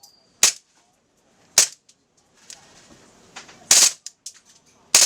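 KSC M93R II gas blowback airsoft pistol firing: four sharp metallic shots at uneven spacing, the third one longer, with the metal slide clacking as it cycles.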